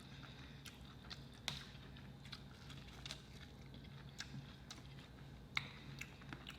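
Faint eating sounds: a person chewing, with scattered soft mouth clicks and a couple of sharper clicks.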